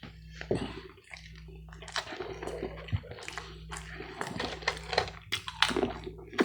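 Close-miked wet chewing and mouth smacks on a mouthful of food, a quick irregular run of small clicks and squishes, over a steady low hum.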